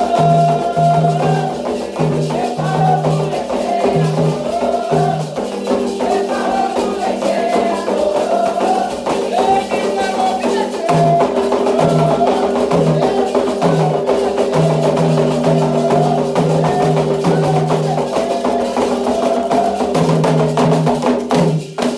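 Candomblé toque for Ogum: hand drums and a struck bell keeping a fast rhythm under voices singing, the music cutting off suddenly at the end.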